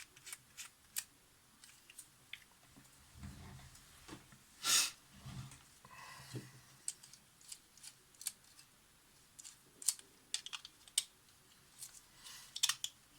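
Scattered light clicks and taps of small camera parts and hand tools being handled on a workbench, with one louder clack about five seconds in.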